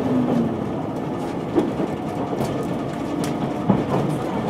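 Inside a tilting limited express train running along the track: a steady rumble of wheels on rail, with a few sharp clacks from the track.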